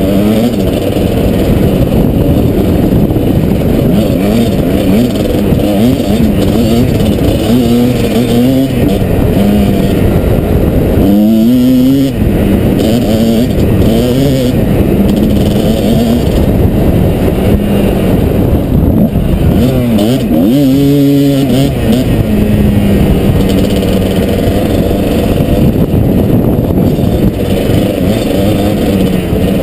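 Kawasaki KDX220 two-stroke dirt bike engine running under way, its pitch rising and falling with the throttle, with two sharp revs about eleven and twenty seconds in.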